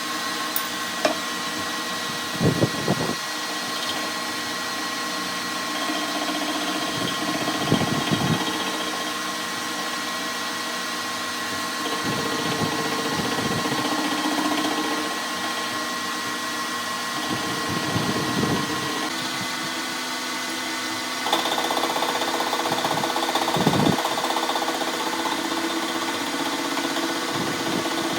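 A power machine tool running steadily, with a constant hum and whine and a louder grinding swell about every five seconds as it works the metal.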